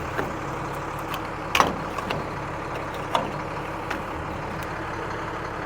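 A vehicle's engine running steadily, with a few light knocks and clicks over it.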